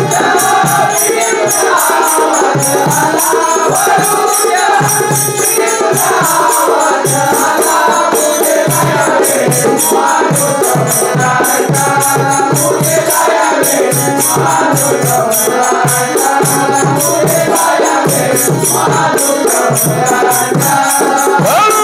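Instrumental interlude of a Marathi bhajan: a harmonium plays the melody over a fast dholki drum rhythm, with a steady high jingling of small percussion keeping time.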